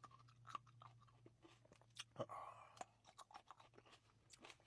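Faint close-up chewing of grapes: an irregular run of small crunches and mouth clicks.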